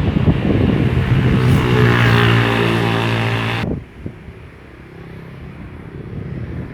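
A passing train's diesel locomotive runs with a steady engine drone, with rail clicks under it. About three and a half seconds in the sound drops suddenly to a quieter rumble with a few more clicks from the wheels.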